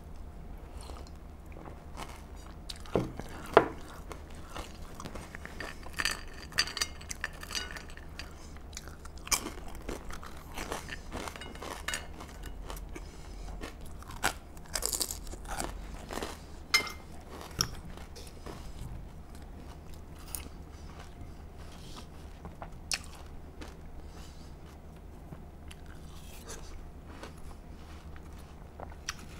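Close-up crunching and chewing of crispy air-fried potato fries: many short crisp crunches, busiest in the first two-thirds and sparser and fainter near the end.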